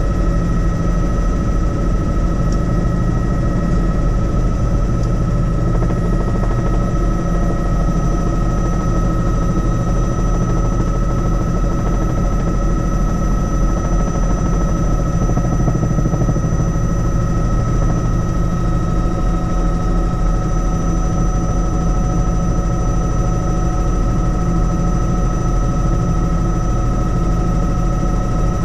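Helicopter in steady flight: continuous rotor and engine noise with a low rumble and a constant high whine, unchanging throughout.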